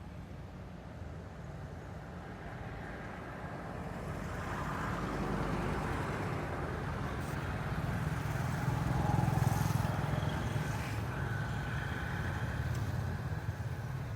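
A motor vehicle running with road noise, growing louder toward the middle and then easing a little.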